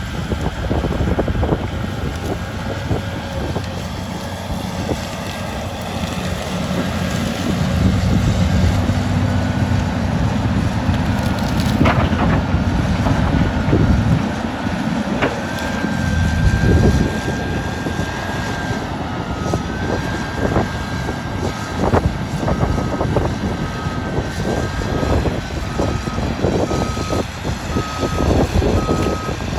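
Caterpillar 325D excavator's diesel engine working under load, with a hydraulic whine and many sharp cracks and knocks as brush and timber are broken during land clearing. In the last several seconds a backup alarm beeps steadily.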